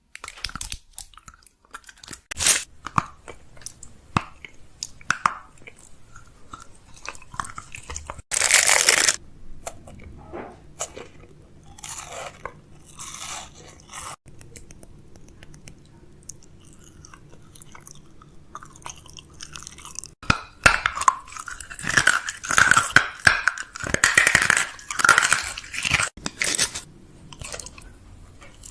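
Crinkling and crunching of snack packaging being handled, with scattered clicks and taps. There is a louder rush of rustling about eight seconds in and a busier stretch of crinkling near the end.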